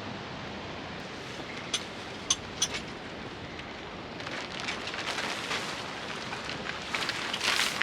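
A camping tarp being handled during setup: a few light clicks, then fabric rustling that grows louder toward the end, over a steady hiss.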